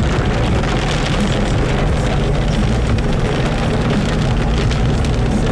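Rain hitting a moving car over steady road and engine noise, heard from inside the car.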